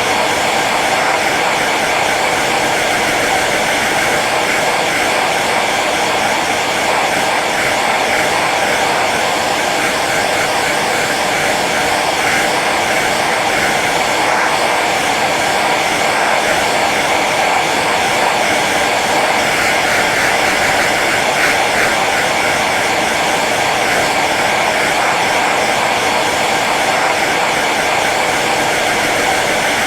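Hair dryer running steadily on its low setting, a continuous whooshing blow of air over its motor's whir.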